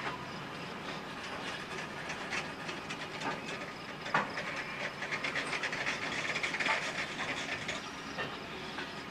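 Freight train of covered hopper cars rolling past, its steel wheels clicking irregularly over the rail joints above a steady rolling noise that swells slightly around the middle.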